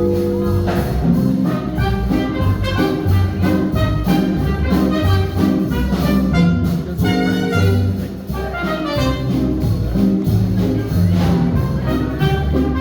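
A swing jazz band playing, with brass lead lines over a walking bass and a steady beat with crisp high clicks.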